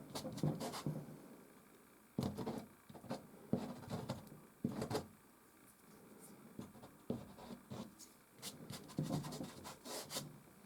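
Soft pastel stick scratching and rubbing across canvas in short strokes. The strokes come in irregular bursts with sharp taps and brief pauses between them.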